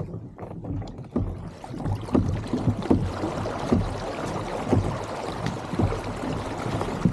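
Water lapping and slapping against a kayak's hull in uneven knocks about once a second, over a rushing hiss of moving water that swells after the first second or so.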